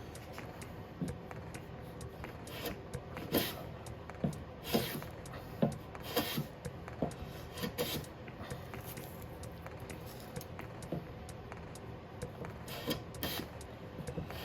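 Luban rebate block plane pushed along a piece of pine in a series of short, irregular strokes, each a brief rasp of the blade cutting, with light knocks in between. The plane, straight out of the box, is taking only a poor cut.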